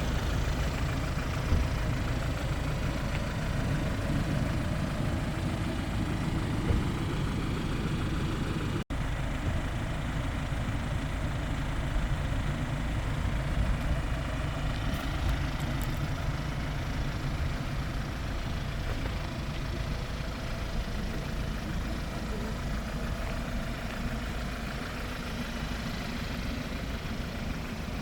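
Hyundai Porter 2 truck's four-cylinder diesel engine idling steadily, with a momentary break about nine seconds in.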